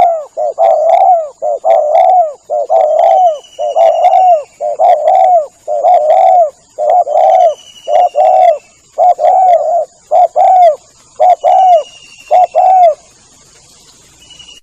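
Spotted dove (tekukur) cooing a long run of short, loud, repeated coo notes, a lure call to draw other doves in. The notes stop about 13 seconds in.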